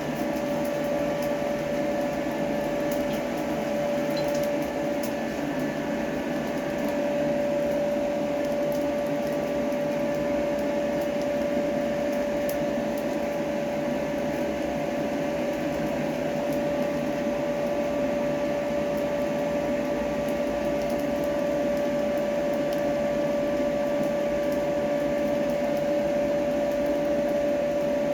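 A blacksmith's forge running steadily: a constant rush of air with a steady hum, as the riveted tongs heat to loosen their stiff joint.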